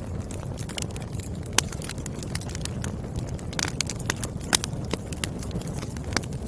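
Wood fire crackling, with irregular sharp pops and snaps of burning firewood over a steady low rumble of the flames; two pops, about a second and a half in and about four and a half seconds in, are louder than the rest.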